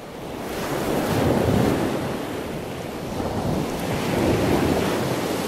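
Strong wind rushing and buffeting the microphone: a dense, steady rush that swells about a second in and stays loud.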